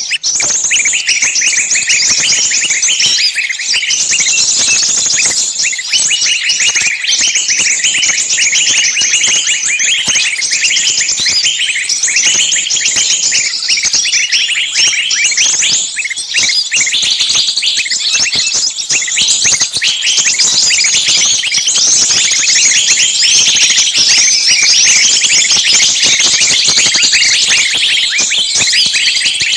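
Many small birds chirping and chattering at once in a dense, unbroken chorus of quick high-pitched calls.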